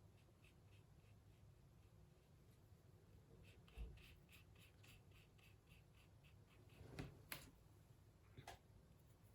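Faint, quick strokes of a paintbrush on watercolour paper, about three or four a second, then a few soft knocks near the end.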